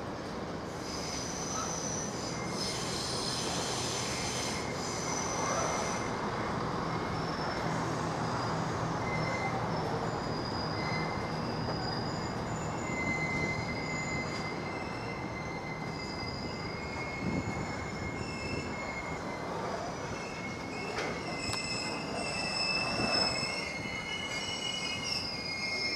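A train running through the station, its wheels squealing on the rails over a steady rumble. Several thin, high squealing tones come and go throughout and grow busier in the last third.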